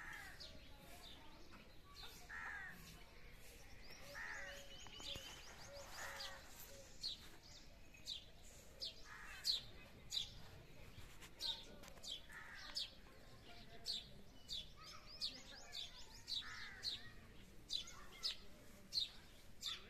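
Several birds calling: short, sharp high chirps repeated many times, thickening in the second half, with a lower, drawn-out call every few seconds and a fast high trill about four seconds in.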